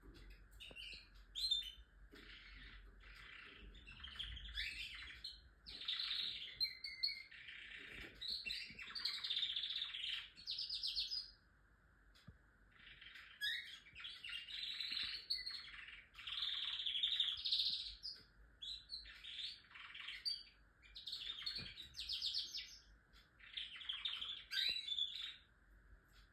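Domestic canary singing long, rapid trilled and warbled phrases, with a few short pauses between bouts.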